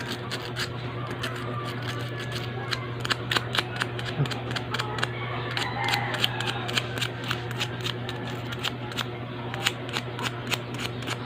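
Short, scratchy strokes of sandpaper rubbing a spark plug's electrode tip, a few irregular strokes a second, over a steady low hum.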